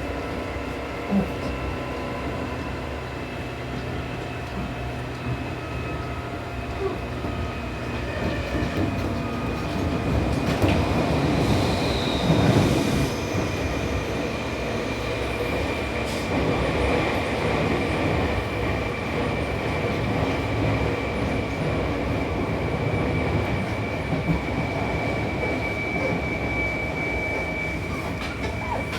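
Seibu New 2000 series electric train heard from inside the car while running at speed between stations: steady wheel-on-rail rumble with a steady motor whine. The noise gets louder from about ten to fourteen seconds in, with a brief high wheel squeal about twelve seconds in.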